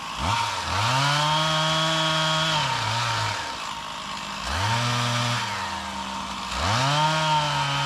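Stihl chainsaw revved up three times, each burst rising quickly in pitch, held for a second or two, then dropping back to idle.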